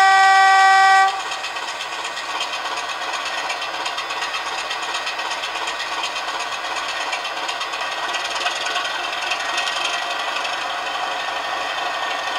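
Model Class 24 locomotive's DCC sound decoder playing through a small speaker: the high note of the two-tone horn ends about a second in, then the recorded Sulzer diesel engine runs steadily.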